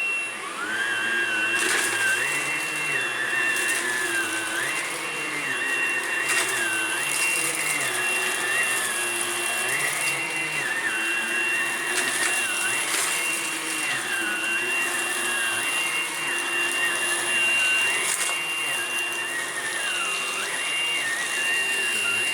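Vacuum cleaner running steadily with a high motor whine. A second, lower whine wavers up and down every couple of seconds, and there are a few brief crackles.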